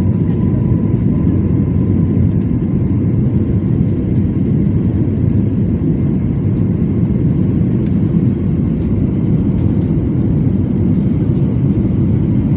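Aeroplane noise heard from inside the passenger cabin: a steady, loud low rumble of engines and airflow that holds at one level throughout.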